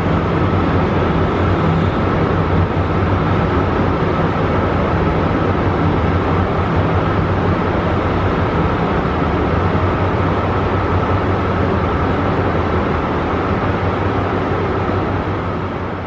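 A train's diesel engine running steadily, with a low drone and a thin steady whine above it. It fades out near the end.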